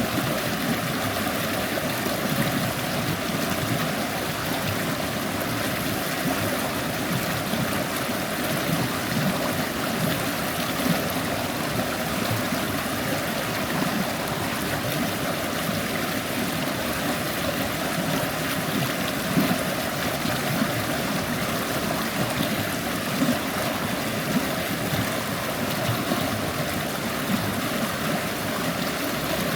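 Shallow forest stream babbling steadily over stones, an even rush of water with small splashes.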